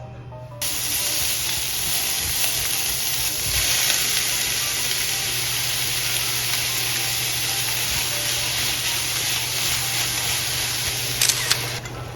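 Food frying in a hot pan: a steady, loud sizzle that starts suddenly about half a second in, with a couple of clicks near the end.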